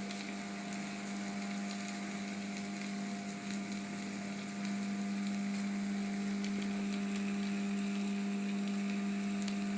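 Marinated chicken pieces sizzling and crackling in an electric tandoor, freshly brushed with ghee and oil, over a steady low electrical hum.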